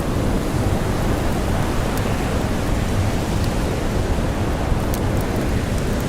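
Steady, deep noise of blizzard wind and blowing snow, with a few faint sharp campfire crackles scattered through it.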